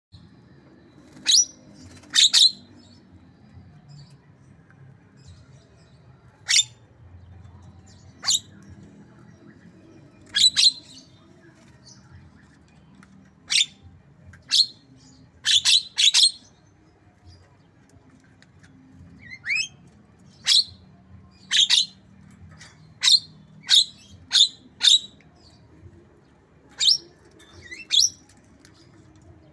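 Javan myna imitating a white-rumped shama: brief, sharp chirps and whistles at irregular intervals, a couple of them sweeping upward, over a faint low hum.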